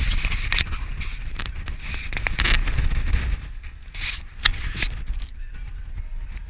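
Blizzard wind buffeting the camera's microphone: a steady low rumble with gusts of hiss that ease after about three and a half seconds, with a few sharp ticks about four and a half seconds in.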